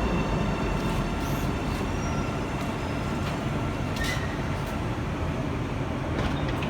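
O-Train Line 1 light-rail train (Alstom Citadis Spirit) running, heard from aboard: a steady low rumble with a few faint clicks.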